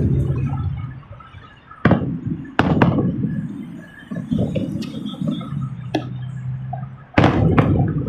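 Fireworks going off: a string of about five sharp bangs with low rumbling booms between them.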